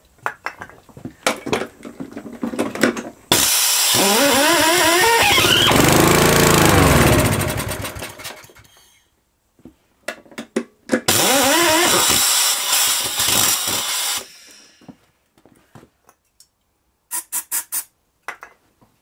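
Homelite V35 lawnmower engine pull-started on easy start starting fluid. After some rattling pulls, it catches about three seconds in, revs up and then sags, and dies after about five seconds. Pulled again, it fires about eleven seconds in, runs for about three seconds and dies again, running badly on the starting fluid.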